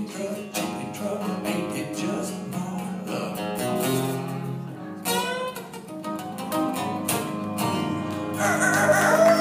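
Strummed acoustic guitar with a singing voice: the close of a country song. A higher, wavering voice comes in near the end.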